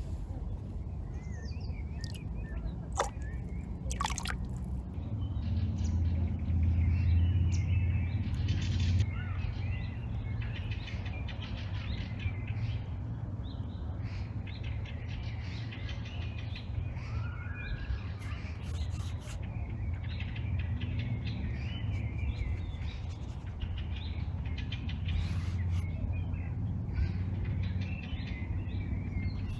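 Several songbirds chirping and singing in a forest over a steady low rumble, which swells for a few seconds early on. Two sharp ticks sound near the start.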